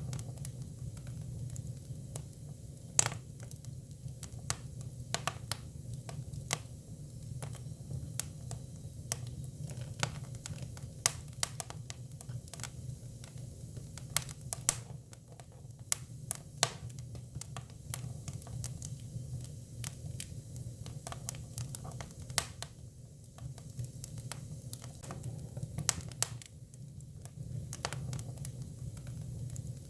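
Hinoki cypress firewood burning, crackling and popping in irregular sharp snaps over a steady low rumble of the fire.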